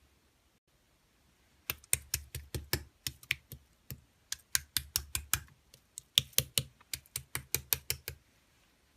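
Slime being pressed and squeezed by hand, giving a quick run of sharp clicking pops, several a second in irregular bursts. The clicks start about two seconds in and stop shortly before the end.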